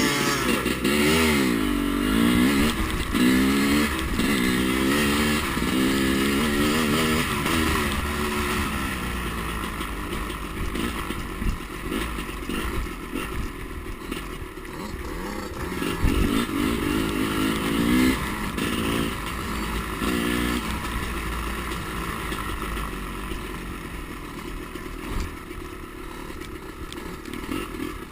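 Two-stroke dirt bike engine being ridden hard, its pitch climbing and dropping again and again as the rider works the throttle through the gears, then running steadier for a stretch before another burst of revving.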